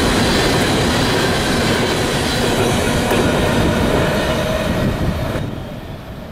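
Freight train of coal hopper cars rolling by, with a steady rumble and clatter of wheels on rail and a faint wheel squeal. The last cars pass and the noise drops away sharply about five seconds in.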